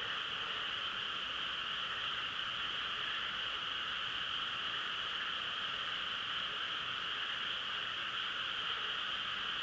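A dense chorus of frogs calling, merged into a steady, unbroken drone in which no single call stands out.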